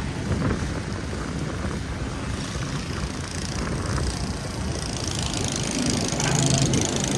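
City street traffic: vehicle engines running with tyre hiss, getting louder near the end as a vehicle draws close.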